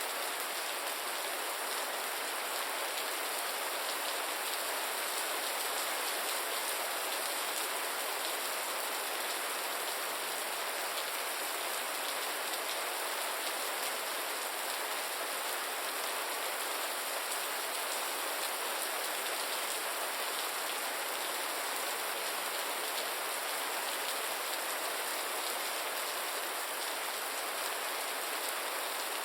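Gentle steady rain, a dense even patter of drops falling on surfaces.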